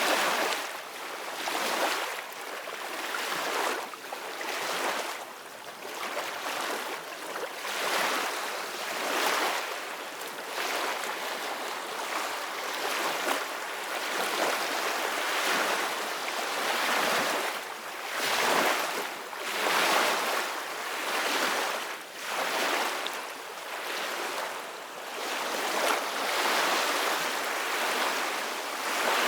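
Ocean waves breaking and washing onto a shore, a continuous surf noise that swells and ebbs every few seconds.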